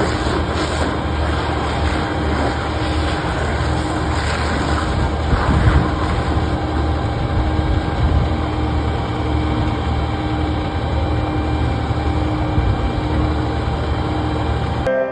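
A heavy engine running steadily at idle: a low rumble under a constant rushing noise.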